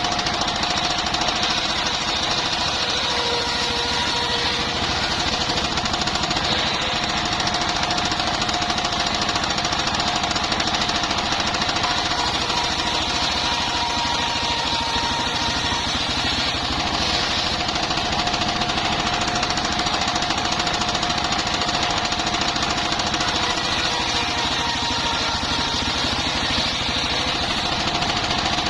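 Engine-driven circular sawmill sawing bayur wood: the engine runs at an even, fast knock under a steady high whine from the spinning saw blade, with no change through the whole stretch.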